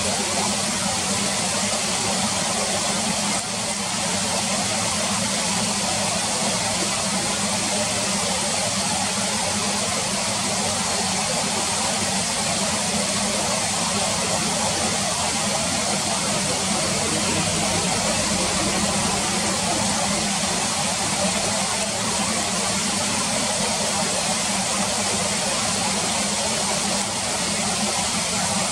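River water rushing steadily over rocks: a continuous, even hiss with no breaks.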